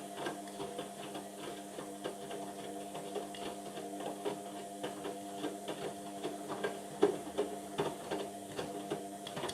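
Indesit washing machine running a Cotton 40 wash: the motor turning the drum gives a steady hum, with irregular light clicks and knocks from the drum and load, the sharpest about seven seconds in.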